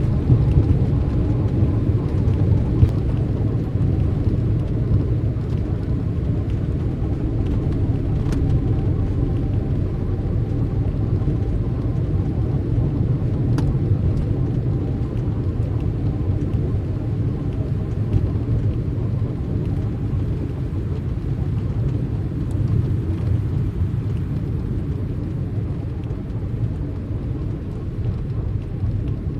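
Steady low rumble of a car driving: engine and road noise running evenly without change.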